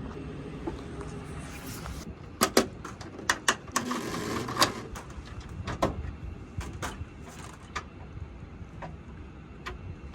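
Several sharp knocks and clicks over a steady low rumble, with a short burst of hissing about four seconds in.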